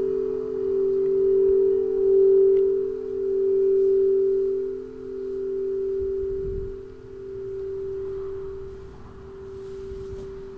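Singing bowls sustaining a steady ringing tone, with a quieter lower tone beneath it. The sound swells and ebbs in slow waves every second or two and gradually fades toward the end.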